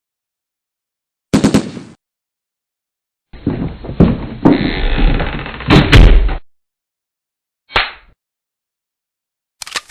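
Door sound effects with silence between clips: a short slam with a few clicks about a second in, then a longer stretch of several thuds and loud bangs in the middle, and a brief thud near the end.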